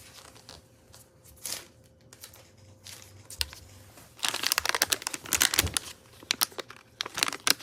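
Packaging being opened and handled, crinkling and rustling: a few faint rustles at first, then a dense run of crinkling from about four seconds in until near the end.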